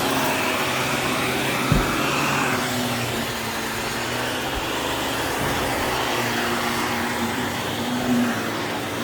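Vacuum cleaner running steadily, its whine rising and falling slightly, with a single knock about two seconds in.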